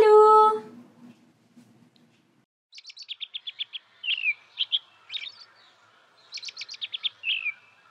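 Small songbird chirping: quick runs of high, rapid chirps, each ending in a short downward-sliding note, repeated about three times.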